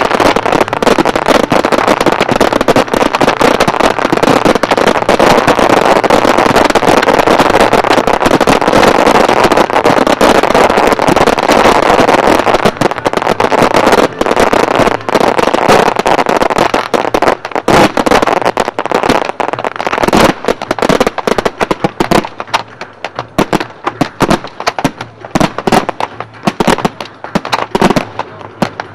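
Aerial fireworks display: a dense barrage of rapid pops and bangs that blends into a continuous din, thinning about twenty seconds in to separate sharp bangs with short gaps between.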